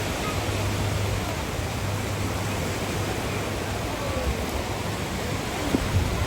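Steady rushing of surf on a beach, an even wash of noise with no break.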